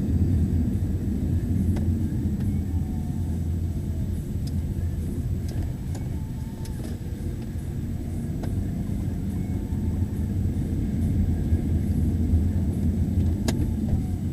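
Car engine and road noise inside a moving car: a steady low rumble, with a sharp click about a second before the end.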